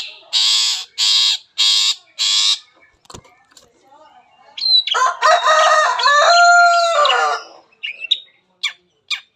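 Long-tailed shrike (cendet) singing its varied mimicking song: a run of six harsh rasping notes, then after a short pause a longer pitched phrase with held notes, then a few short sharp chips near the end.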